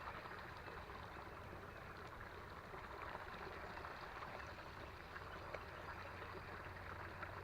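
Faint, steady running water of a small creek, with a few faint ticks.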